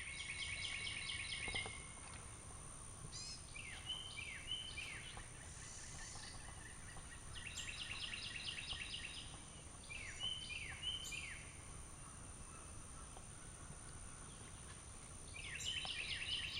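Faint songbirds singing: three bursts of quick repeated notes, with short falling notes between them.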